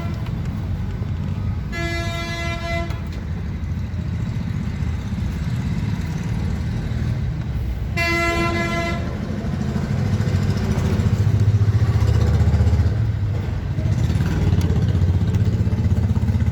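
A vehicle engine running steadily, its note growing louder about ten seconds in, with two car horn honks of about a second each, roughly six seconds apart.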